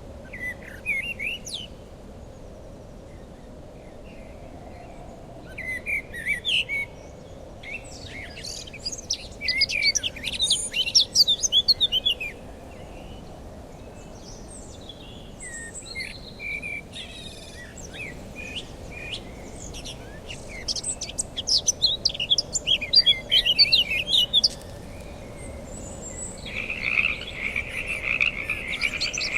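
Songbirds singing and chirping in repeated bursts of quick high notes. Near the end a steady, dense croaking trill of a frog chorus sets in.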